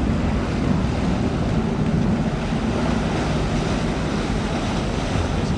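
Steady low engine rumble mixed with a rushing noise.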